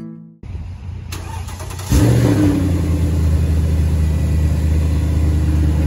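A Mercedes-Benz ML SUV's engine starting about two seconds in, with a brief rev flare, then settling into a steady low idle.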